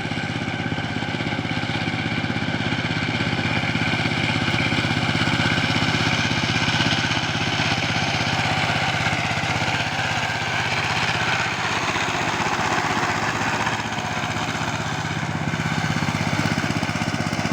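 Siefing 12-horsepower power tiller running steadily under load, its engine working and its rotary blades churning through a paddy field of tall rice stubble on a first ploughing pass.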